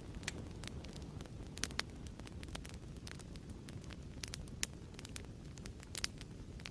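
Wood fire crackling in a fireplace: a steady low rumble of flames under frequent sharp pops and snaps, with a few louder pops, twice near the middle and once near the end.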